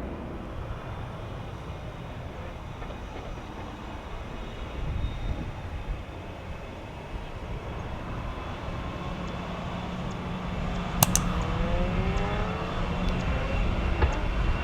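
Jet airliner engine noise at an airport, with wind rumbling on the microphone; in the last few seconds a rising engine whine builds.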